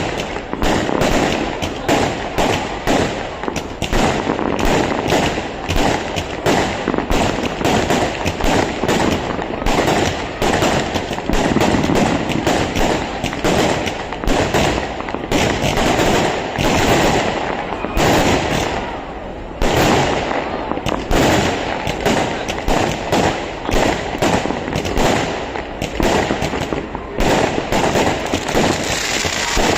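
Fireworks going off in a continuous barrage: rapid sharp bangs and crackling, several a second, easing briefly about two-thirds of the way through before picking up again.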